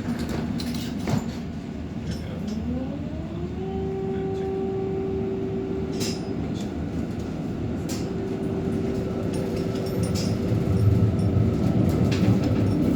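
Electric tram running: its motor whine rises in pitch as it picks up speed, then holds a steady tone over the rumble of wheels on rails. A few sharp clicks come near the start and about six seconds in, and the rumble grows louder near the end.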